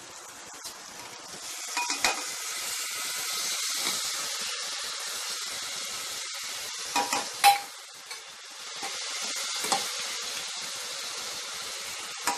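Spiced vegetables frying in an aluminium pressure cooker sizzle louder as washed rice and lentils are tipped in, with a few sharp clinks of metal against the pot, the loudest about seven and a half seconds in.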